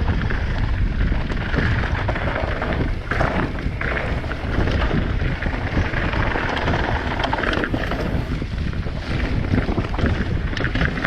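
Wind buffeting a helmet camera's microphone as a mountain bike descends at speed, with the bike clattering and rattling over rough trail throughout.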